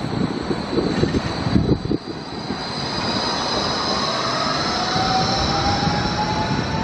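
Gold Coast light rail tram running by, its electric drive whining and rising steadily in pitch from about two seconds in. Wind buffets the microphone, heaviest in the first two seconds.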